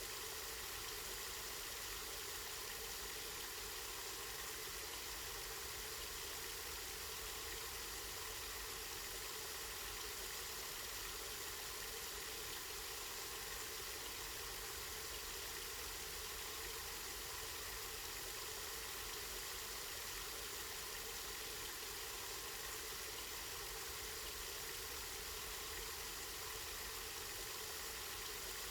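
Spring water flowing steadily in a continuous, even rush, with a low steady rumble beneath it.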